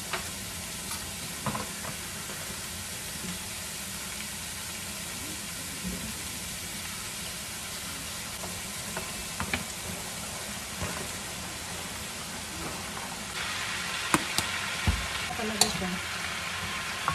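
Julienned carrots sizzling steadily in hot oil in a wok, with occasional taps of a wooden spatula. About thirteen seconds in, the sizzle grows louder as shredded cabbage goes into the pan, and a few sharper clicks of spatula and spoon against the wok follow as the vegetables are stirred.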